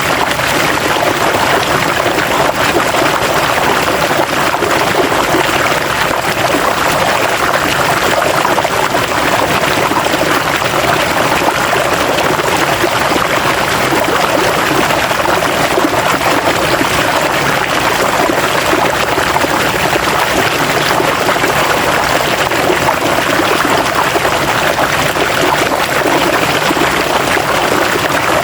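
River water flowing steadily over rocks: a continuous rushing, splashing babble with no pauses.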